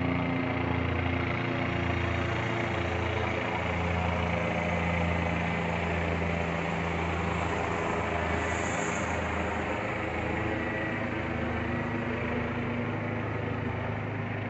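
Low-flying helicopter circling overhead: a steady drone of rotor and engine with a pulsing low throb, fairly even in level throughout.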